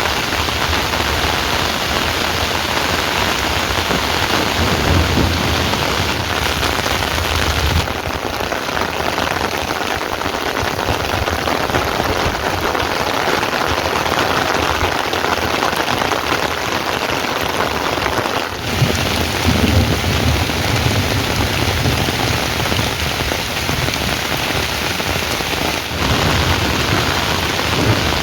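Heavy rain falling steadily, a dense hiss with low rumbling swells now and then. The sound shifts abruptly three times, as if spliced.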